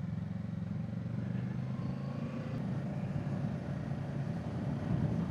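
Kawasaki Z650's parallel-twin engine running at a steady, low note through its stock exhaust as the motorcycle is ridden along.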